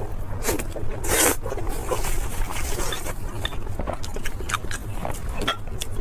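Close-miked eating of crispy food: two loud crunching bites in the first second and a half, then chewing with many small sharp crackles.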